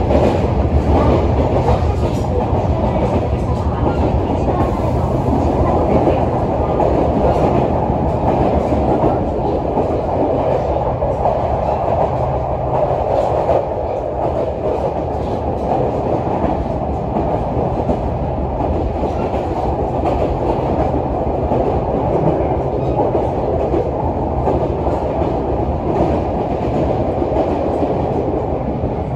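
Yoro Railway 600 series electric train running on the line, heard from inside the carriage: a steady rumble of wheels and rails with faint clicks over the track.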